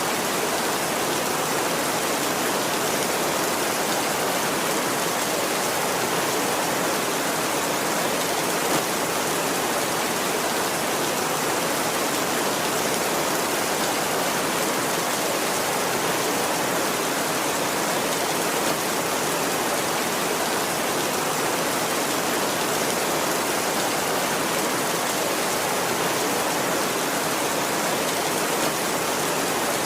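Heavy rain drumming steadily on a tin roof, an even, unbroken hiss with no thunder.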